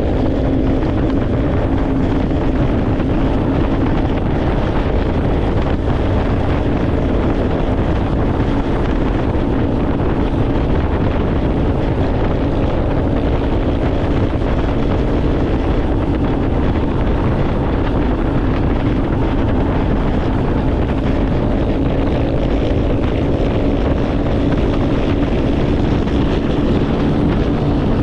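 A motor vehicle's engine running at a steady pitch, with wind buffeting the microphone.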